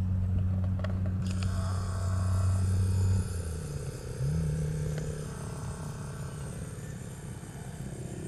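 Aircraft engines running: a steady low drone that drops about three seconds in and rises again about a second later, with a high whine above it.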